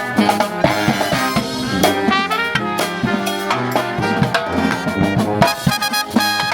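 A brass band plays an upbeat swing-jazz number, with trumpets and trombone carrying the tune over drums.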